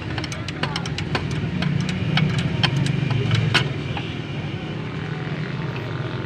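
A motor vehicle engine running steadily, with a run of sharp, irregular clicks over the first three and a half seconds that then stop.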